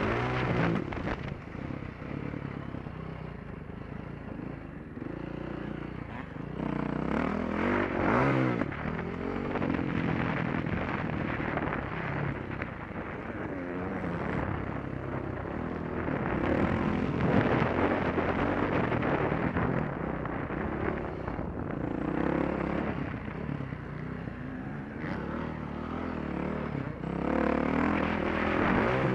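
Motocross bike engine heard close up from the rider's helmet, rising and falling in pitch as the throttle opens and closes around the dirt track.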